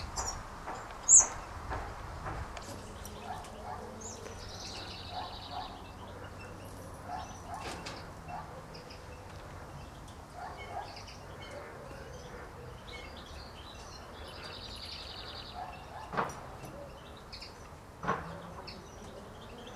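Small birds calling: a sharp high chirp about a second in, two short fast trills, and scattered softer notes, with two knocks near the end.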